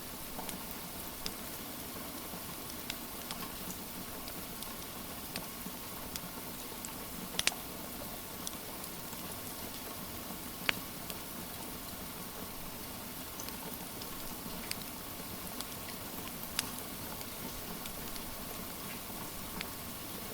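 Steady rain hiss mixed with a crackling wood fire: scattered sharp pops and snaps, the loudest a double pop about seven seconds in and single pops near eleven and seventeen seconds.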